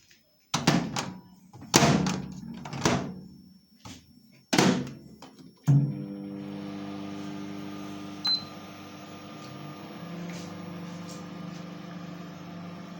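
A few loud thumps, then about halfway in a repaired microwave oven starts up on a test run and keeps running with a steady electrical hum, with one short beep a little later.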